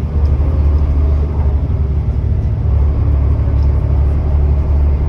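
Volvo B7TL bus's six-cylinder diesel engine running steadily under way, a strong low drone with a blown exhaust.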